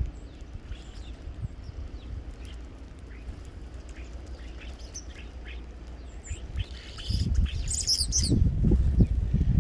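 Small birds chirping, with short scattered chirps throughout and a quick burst of high calls about eight seconds in. A low rumbling noise joins from about seven seconds.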